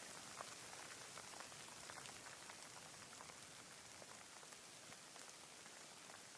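Light, steady rain: a faint even hiss with scattered single raindrops ticking.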